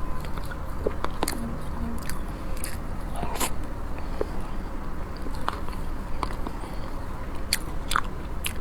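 A person eating close to the microphone: chewing, with scattered sharp wet mouth clicks and smacks, over a steady low hum.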